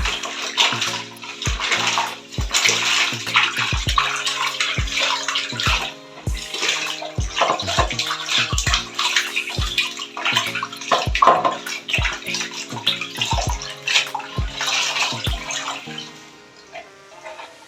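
Water splashing and running while a plastic fridge part is washed and scrubbed, over background music with steady held notes and a regular beat.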